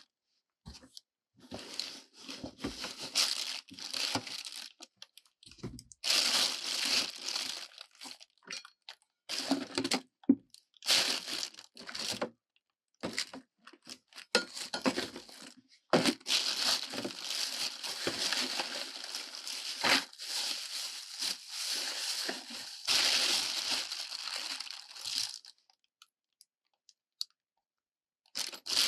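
Dry material being crumpled, torn and crunched by hand, in bursts of rustling a second or a few seconds long with short gaps between; the longest run is about seconds 16 to 25.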